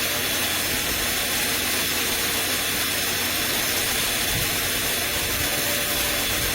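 Motor of a LAVOR Swimmy electric pool vacuum running steadily: an even, airy rush with a faint constant whine.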